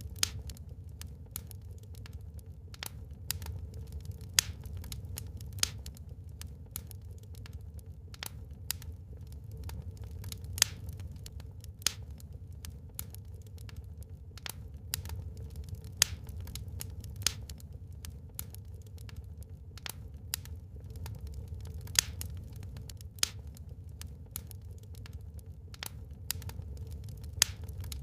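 Wood fire burning in a fireplace, crackling and popping: irregular sharp snaps several times a second, with a louder pop every second or two, over a steady low rumble.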